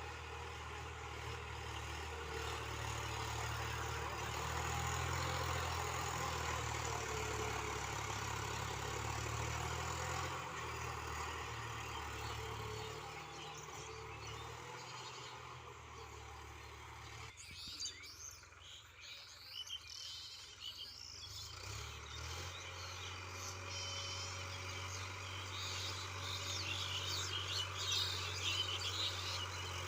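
Sonalika DI-50 RX tractor's diesel engine running with a steady low hum. The sound cuts out for a few seconds about two-thirds in, then the engine comes back, and birds chirp over it near the end.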